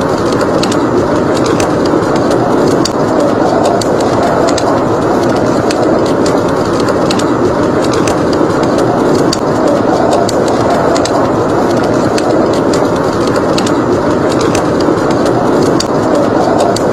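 Steady rushing blizzard wind, with a wood fire crackling over it in scattered small sharp pops.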